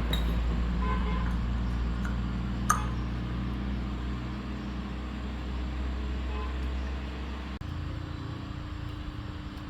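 Electric water pump motor running with a steady low hum, and one sharp click about three seconds in. Near the end the hum cuts off abruptly and a slightly different, higher hum takes over.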